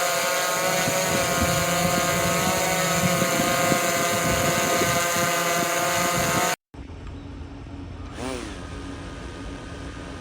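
DJI drone's motors and propellers whining steadily at a high pitch with a hiss of rushing air. About two-thirds of the way through the sound cuts out for a moment and comes back quieter, and a little later the pitch swoops down briefly.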